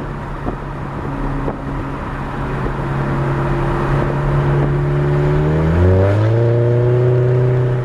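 Exhaust of a 2010 VW GTI's turbocharged 2.0-litre four-cylinder running through a 3-inch APR downpipe and straight pipes with no muffler, heard loud from inside the cabin with the windows down. The engine note climbs steadily in pitch as the car accelerates, then changes pitch abruptly about six seconds in.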